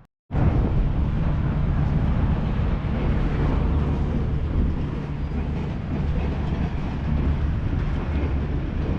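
A loud, steady mechanical rumble with a rattle, starting abruptly just after a brief gap.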